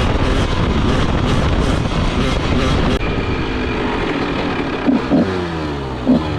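Honda CR125 two-stroke dirt bike engine running hard with a rough, noisy sound. It changes abruptly about three seconds in to revving whose pitch falls away between quick throttle blips near the end.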